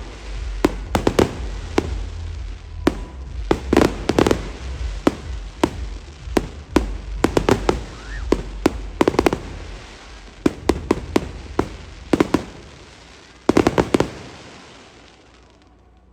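Fireworks display: a rapid series of loud bangs and crackles, with a dense burst of bangs near the end before it dies away.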